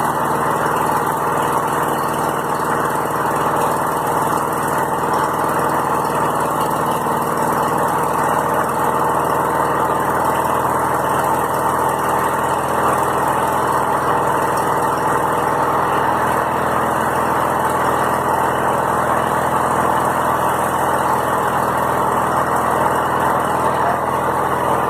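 Petrol engine idling steadily after a cold start, its note even throughout. The owner says it is running rough, as if short of fuel, and smoking from the front.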